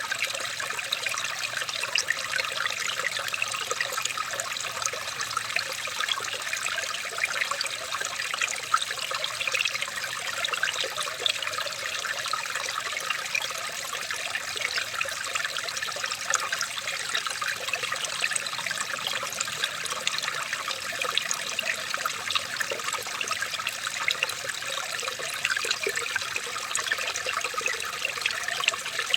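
Running water trickling and splashing steadily, many small splashes merging into an even, unbroken rush.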